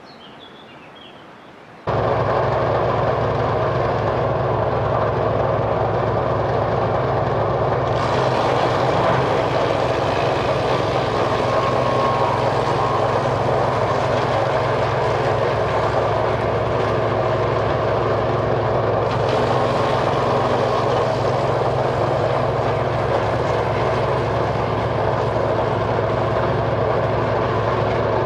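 Petrol-engined wood chipper coming in abruptly about two seconds in and then running steadily at constant speed, with a harsher, hissier stretch in the middle.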